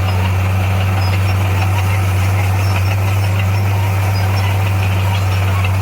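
Diesel engine of heavy earthmoving equipment running at a steady speed, a deep, even hum with no change in pitch.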